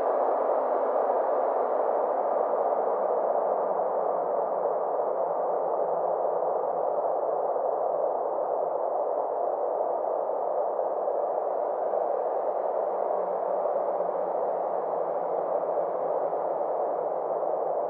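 Synthesized space-ambience drone: a steady, even wash of filtered noise centred in the middle range, its brightness slowly dipping and swelling again.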